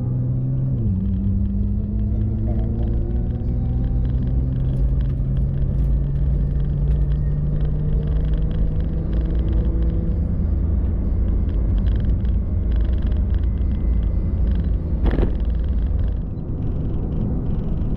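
Car engine and road rumble heard on board while driving. The engine note drops about a second in, as at a gear change, then rises slowly as the car pulls. A single sharp knock comes about 15 seconds in.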